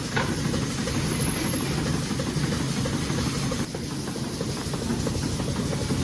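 Goat milking parlour machinery running: a steady mechanical hum with a hiss over it.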